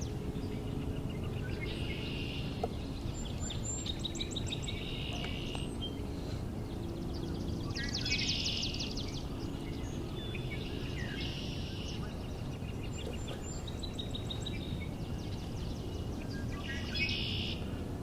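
Red-winged blackbirds singing, each song ending in a buzzy trill, repeated about every three seconds, the loudest about eight seconds in. Other short bird notes and a steady low background are heard too.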